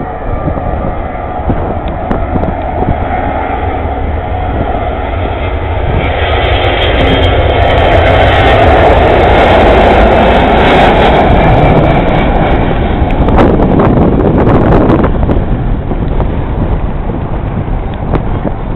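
Airbus A340-300 jet airliner's four CFM56-5C turbofan engines at takeoff thrust: a continuous roar that swells to its loudest about a third of the way in as the jet passes, then slowly fades.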